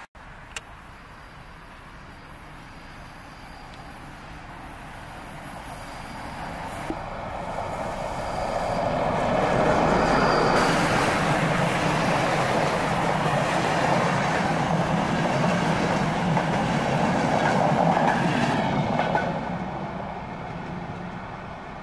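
Locomotive-hauled passenger train, two InterRegio trains coupled together, approaching and passing close by with rail rumble and wheel clatter. It grows loud about nine seconds in, stays loud for about ten seconds as the carriages run past, then fades as it recedes.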